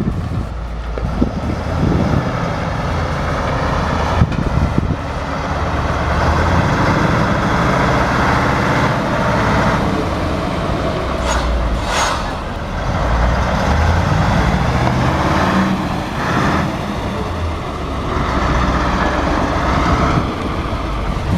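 Heavy truck's diesel engine running continuously under load, with road and wind noise and a brief hiss about halfway through.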